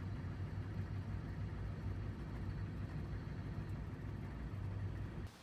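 Vintage van's engine running steadily with a low hum, cutting off suddenly near the end.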